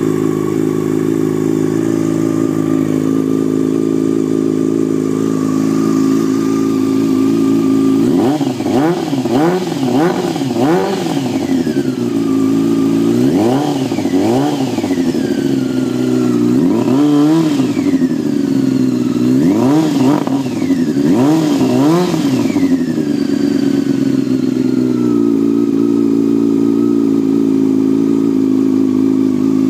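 2001 Yamaha YZF-R6's inline-four engine through a newly fitted aftermarket carbon exhaust, idling steadily, then revved in a run of throttle blips from about eight seconds in, with a few longer, higher revs later on, before settling back to idle.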